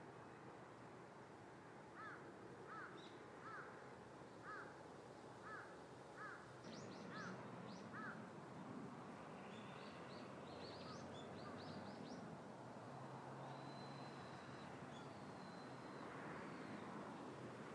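Faint outdoor ambience with birds calling. A run of about eight short, evenly repeated calls comes first, then a flurry of higher chirps and a brief high whistle.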